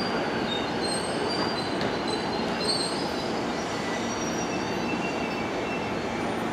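485-series electric train approaching slowly along a station track: a steady rumble with scattered brief high squeals.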